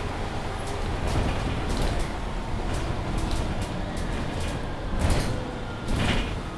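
Interior of a Mercedes-Benz Citaro C2 hybrid city bus under way, a steady low rumble from the drivetrain and road. Two louder knocks or rattles come about five and six seconds in.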